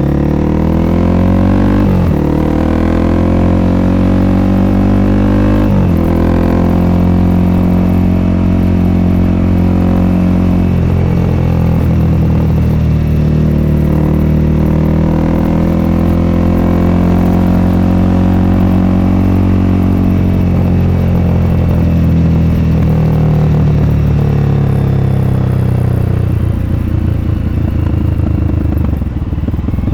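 Honda CRF300L's single-cylinder four-stroke engine through an FMF Q4 exhaust, pulling through the gears with upshifts about two and six seconds in. The revs then hold steady, and they fall away near the end as the bike slows.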